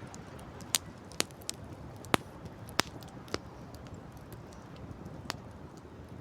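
Wood campfire crackling, with a handful of sharp, irregular pops, the loudest about two seconds in, over a steady low rush.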